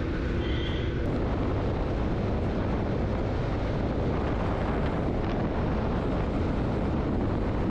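Motorcycle riding along at a steady speed, with wind rushing over the microphone.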